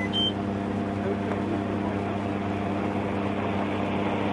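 Steady engine hum of an idling vehicle, with a short electronic beep right at the start.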